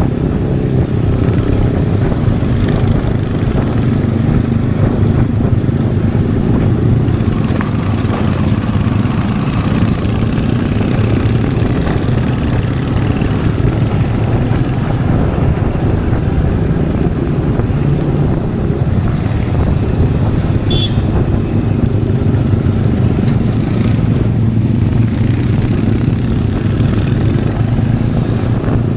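Royal Enfield Hunter 350's single-cylinder engine and exhaust running while the bike is ridden at a fairly steady pace, the engine note holding nearly level. A brief high-pitched blip about two-thirds of the way through.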